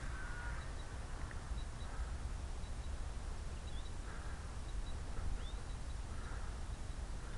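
Steady low rumble of wind on the microphone, with faint, short high bird chirps repeating every second or so.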